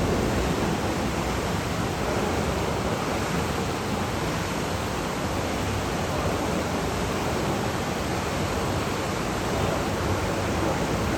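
A steady rushing hiss, like wind or surf, played over the tunnel's loudspeakers as a ride sound effect.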